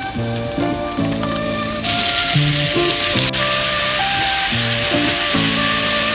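Food sizzling in a hot frying pan, the sizzle getting much louder about two seconds in and holding steady, under soft background music.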